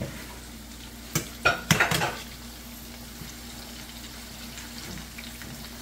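Squash frying in hot grease in an electric skillet: a steady sizzle. About one to two seconds in comes a short clatter of knocks and scrapes as utensils hit the skillet, and a faint steady hum runs underneath.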